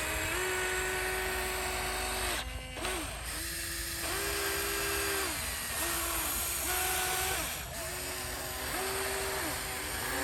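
Small electric motors of a radio-controlled construction model whining, switching between a few speeds every second or so and briefly dropping out between runs as the controls are worked.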